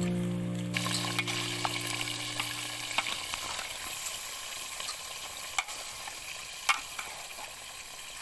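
Food sizzling as it fries in a pot on a wood-fired chulha (clay stove), with scattered sharp crackles and ticks and the occasional scrape of stirring.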